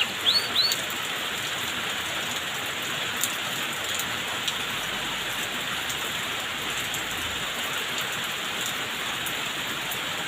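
Steady hiss of rain-like falling water. A canary's last few chirped notes sound in the first second.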